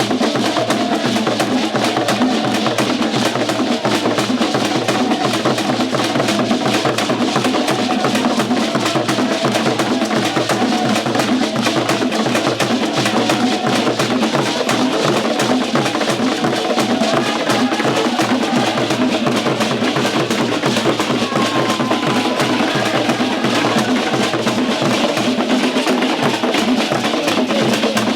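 Fast, dense drumming and percussion with a hard wooden knocking over it, played as music with a driving beat.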